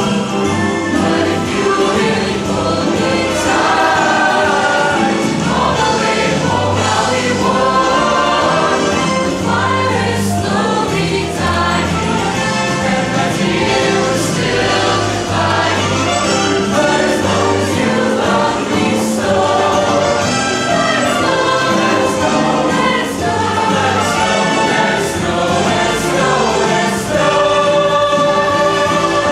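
A high school choir singing in harmony, holding sustained chords.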